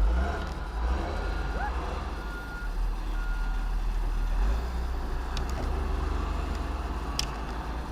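A vehicle's reversing alarm beeping about once a second, stopping about halfway through, over a steady low engine rumble.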